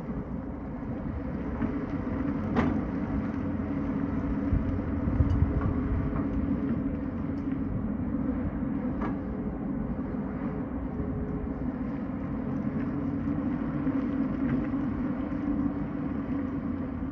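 Tata Hitachi excavator's diesel engine running steadily under load, with a few sharp knocks, the clearest about two and a half seconds in and another about nine seconds in.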